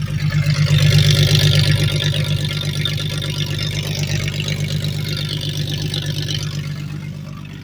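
1994 Jeep Grand Cherokee's 4.0-litre inline-six running cold with no exhaust pipe or catalytic converters, a raw, rapid, pulsing engine note. It is loudest about a second in and eases slightly after that.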